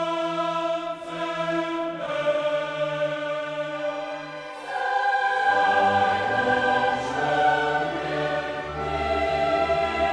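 Choral music: a choir singing long held chords that swell louder about five seconds in.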